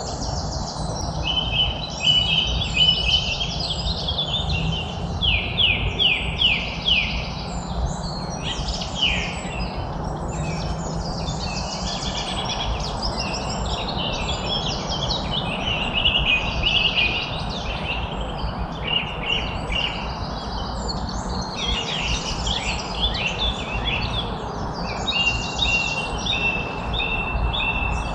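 Many songbirds chirping and trilling at once in quick, overlapping phrases, over a steady low background rumble.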